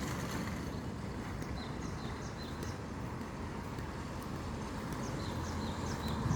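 Steady low outdoor rumble, with a small bird giving short high chirps, mostly in pairs, several times through the stretch.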